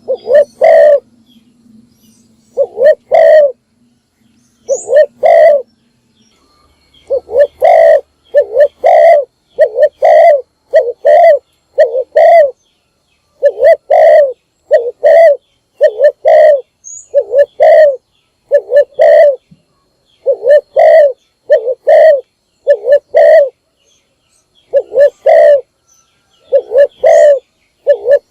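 Spotted dove (cu gáy) decoy bird cooing: a long series of short, loud coos, mostly in pairs. After a few gaps in the first seconds they repeat about once a second. This is the call used to lure wild doves.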